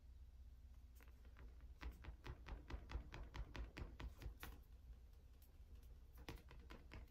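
Faint, irregular light taps and clicks of small objects being handled, over near silence, most of them in the first half.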